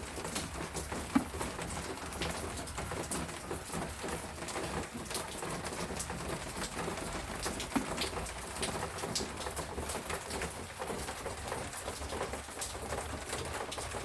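Steady rain falling, with many individual drops pattering and a few louder single drips, while a dove coos low in the background.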